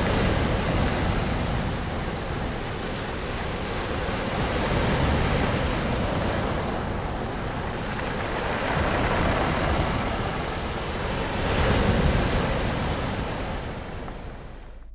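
Rushing water, loud and continuous, swelling and easing every few seconds, with wind buffeting the microphone; it fades near the end.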